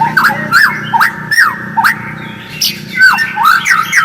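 White-rumped shama (murai batu) calling in quick, repeated sweeping chatter notes, several a second, a recording of the kind played to stir captive shamas into song.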